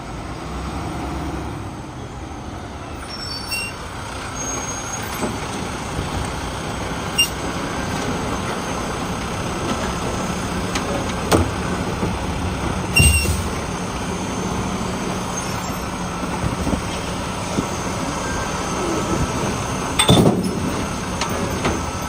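Side-loading garbage truck with a Boivin Evolution arm on a Heil RevAmp body running at work, its diesel engine going steadily. A steady hum runs through the middle, and several sharp bangs stand out, the loudest near the middle and near the end.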